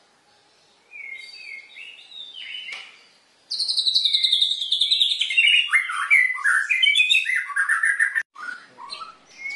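A white-rumped shama (murai batu) singing: soft phrases at first, then about three seconds in a loud, rapid run of chirped notes that slides down in pitch, followed by more short phrases.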